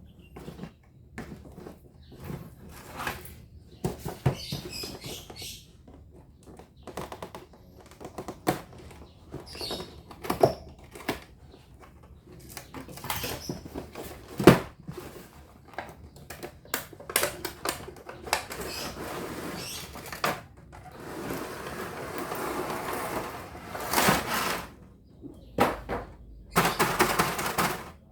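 Toy packaging being handled and opened: scattered clicks and taps, with longer stretches of crinkling plastic rustle near the end.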